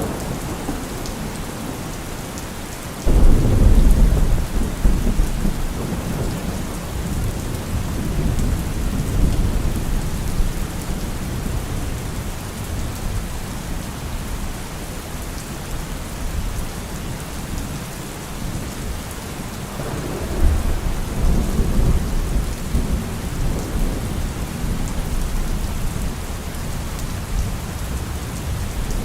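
Heavy rain falling steadily on a car roof, with a sudden loud clap of thunder about three seconds in that rumbles on and fades over several seconds. A second, softer roll of thunder comes about two-thirds of the way through.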